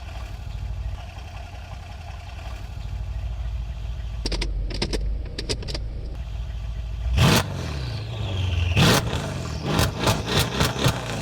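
A car engine runs with a low steady rumble that slowly builds. From about four seconds in it is broken by clicks, then a loud bang about seven seconds in and a quick run of further bangs near the end.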